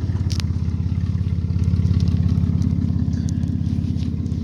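A 2002 Jeep Liberty's 3.7-litre V6 idling steadily with a fast, even exhaust pulse. A sharp click sounds about half a second in.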